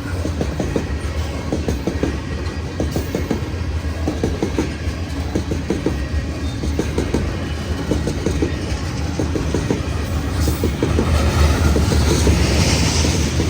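Train cars rolling past at close range: a steady rumble with rapid clicking of wheels over the rails. A hiss swells about eleven seconds in.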